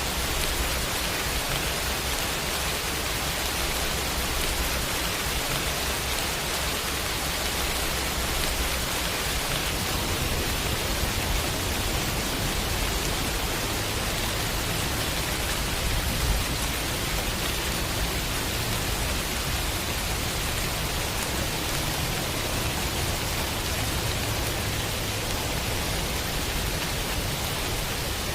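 Heavy rain falling steadily, an even hiss, with a low rumble underneath.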